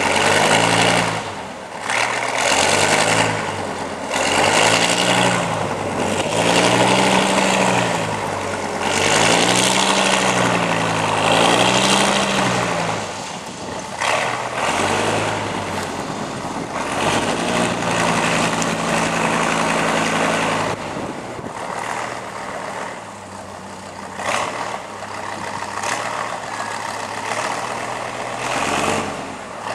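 Competition trial truck's diesel engine revving hard again and again, its pitch swelling and falling every second or two, then settling to a steadier, lower running for the second half.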